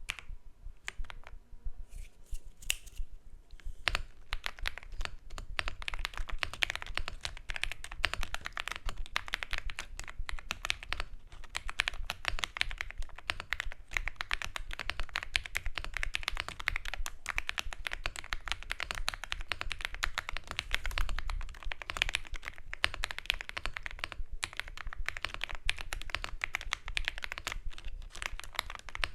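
Typing on a computer keyboard: a few separate keystrokes, then fast continuous typing from about four seconds in.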